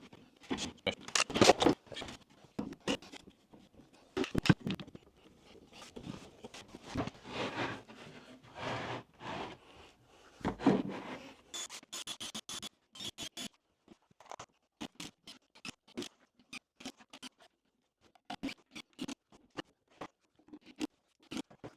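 Irregular scraping, rubbing and knocking of wooden shelf boards being handled and joined together. The sounds are dense for the first half, then thin out to scattered short clicks.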